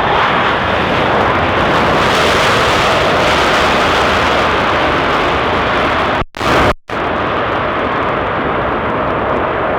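Jet airliner engines running loud and close, a steady rushing roar that swells slightly in the middle. The sound cuts out twice briefly about six and a half seconds in.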